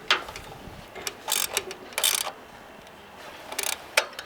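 Ratchet spanner clicking in short bursts, four or five strokes with pauses between, tightening a fitting on the engine's pipework.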